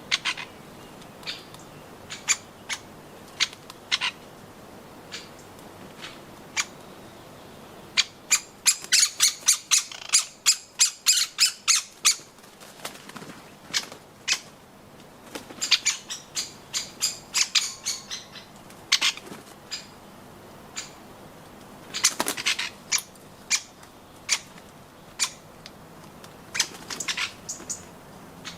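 Woodpeckers at a garden nut feeder making short, sharp, high clicks. The clicks come singly at first, then in a fast dense run about eight seconds in, and in further clusters later.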